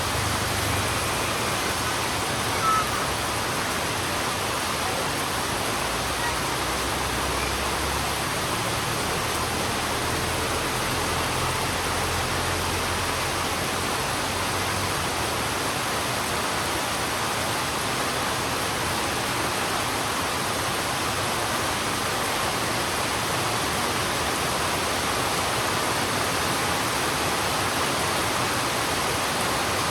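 Heavy rain falling steadily, an even hiss of water hitting the road, with a low rumble underneath through the first half and one short tick about three seconds in.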